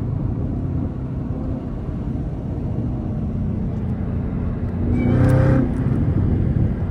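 Cabin sound of a Chevrolet Camaro ZL1 1LE cruising at highway speed on a wet road: its supercharged 6.2-litre V8 drones low under steady road and tyre noise, swelling louder about five seconds in.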